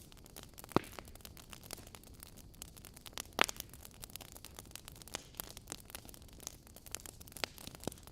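Wood fire crackling in a fireplace: a run of small snaps and clicks over a low hiss, with two louder pops, one about a second in and one near the middle.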